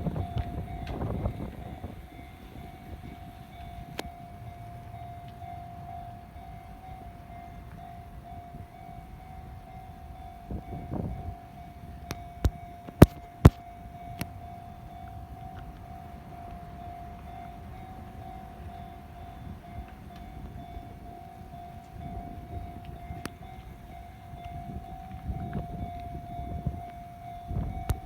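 Railway level-crossing alarm ringing steadily with one unchanging electronic tone, over the low rumble of a train on the line. Near the middle come a few sharp clicks, the loudest sounds.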